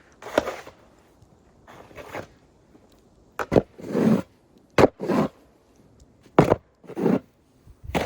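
Snow shovel working snow: several strokes, each mostly a sharp knock of the blade followed by a short scrape.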